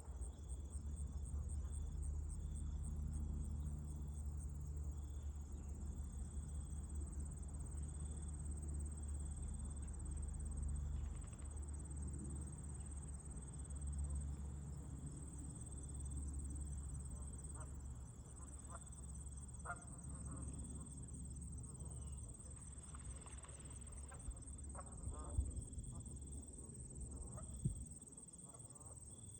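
Insects, crickets by their sound, chirping: a continuous high pulsing trill with short chirps repeating over it. A low rumble of wind runs underneath and drops away near the end.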